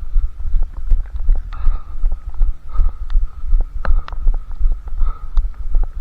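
Running footfalls thudding at about three strides a second, picked up by a head-mounted camera that jolts with each step.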